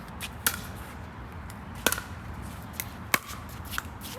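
Pickleball rally: paddles hitting the plastic ball, three sharp pocks a little over a second apart, with fainter clicks in between.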